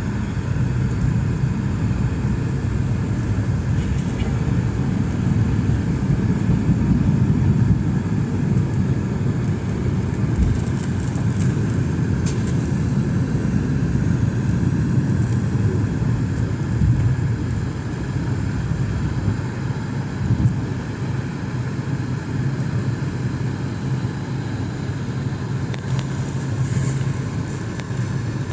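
Steady low rumble of a Boeing 717 airliner under way, the noise of its jet engines and the air rushing past holding an even level throughout.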